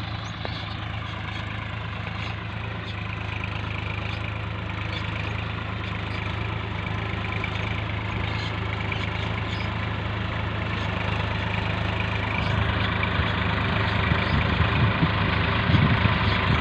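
Swaraj 960 FE tractor's diesel engine running steadily, getting louder and heavier in the last few seconds.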